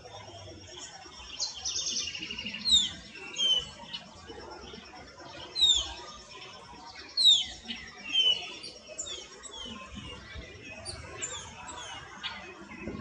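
Small birds calling: a series of short, high chirps, each sweeping downward in pitch, repeated irregularly with several louder ones. A faint steady high-pitched whine runs behind them.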